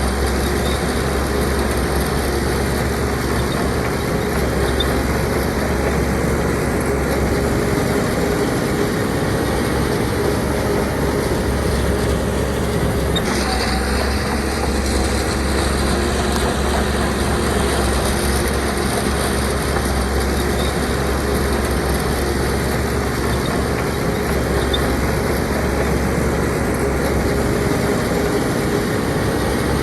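Diesel engine of heavy earthmoving machinery running steadily with a deep, constant drone; the sound shifts slightly about thirteen seconds in.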